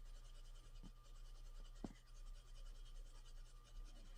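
Near silence: faint room tone with a low steady hum and two soft clicks, about one and two seconds in.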